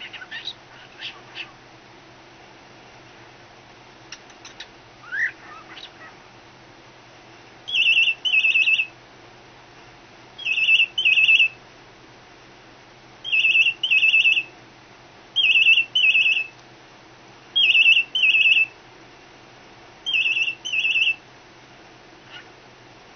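Cockatiel imitating a telephone ring: six double rings, each a pair of short trilled high notes, repeated at slightly uneven gaps of two to three seconds. They are preceded by a few soft chirps and a short rising squeak.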